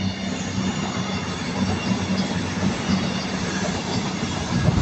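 CrossCountry Class 220 Voyager diesel multiple unit passing at speed, its underfloor diesel engines giving a steady low drone under the rolling noise of the wheels on the rails.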